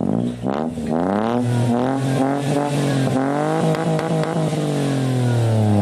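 Toyota Agya engine being revved through an aftermarket Remus branched exhaust. It gives several quick blips of the throttle, then a longer rise and fall in pitch in the second half.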